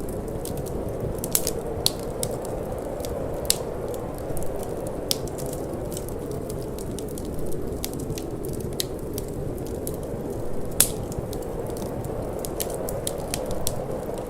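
Wood fire crackling, with irregular sharp snaps and pops, over a steady low rush of wind. One snap about three-quarters of the way through stands out as the loudest.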